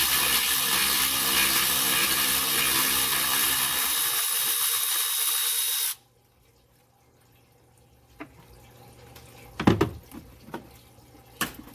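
A power tool running steadily for about six seconds as it backs out the 8 mm bolt holding the truck's ground strap, then cutting off suddenly; a few light knocks of metal parts follow near the end.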